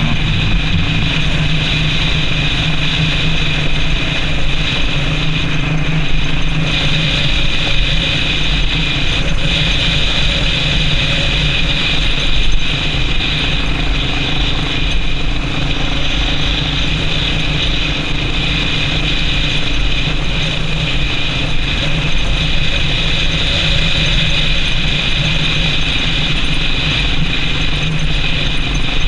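Yamaha Serow XT225's single-cylinder four-stroke engine running at a steady speed while the motorcycle is ridden, with mechanical noise from the bike throughout.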